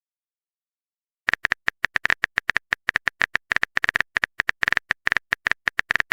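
Smartphone keyboard typing clicks: a rapid, irregular string of short taps starting about a second in.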